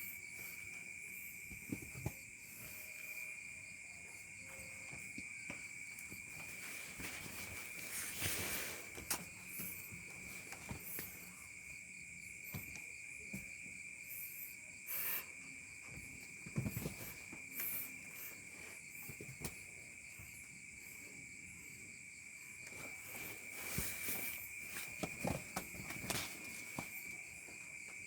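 Steady high chirring of crickets, with scattered short knocks and rustles.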